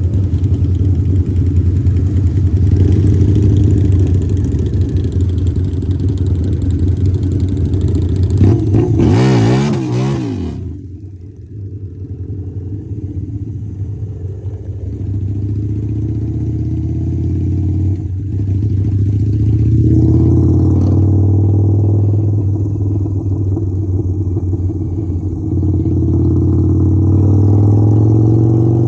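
Harley-Davidson motorcycle V-twin engine running under way, with a brief loud rush of noise about nine seconds in. The engine then drops off the throttle and pulls up again.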